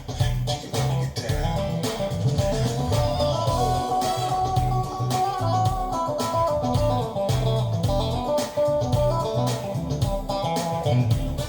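Recorded music with guitar and bass guitar over a steady beat, played back through Wilson Audio Watt/Puppy 6 floorstanding loudspeakers and picked up by a phone microphone in the room.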